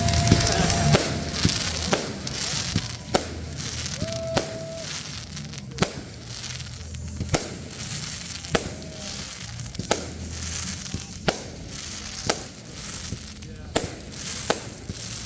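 Aerial firework shells bursting in a series of sharp bangs, roughly one every second or so.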